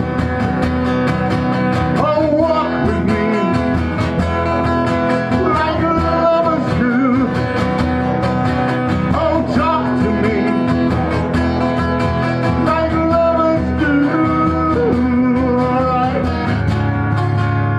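Live acoustic guitar music: a wavering lead melody over sustained strummed chords, with a steady low note coming in near the end.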